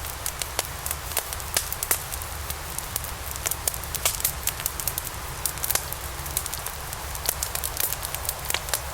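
Wood fire of burning logs crackling and popping, with many sharp, irregular snaps over a steady low rumble.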